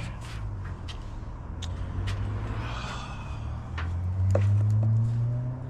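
An engine running with a low steady hum, growing louder and rising slightly in pitch over the last second and a half, with a few sharp clicks scattered through.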